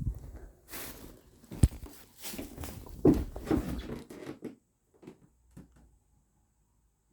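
Two cats wrestling: irregular scuffling and scrabbling with a couple of sharp thumps, busiest in the first four and a half seconds, then a few soft knocks.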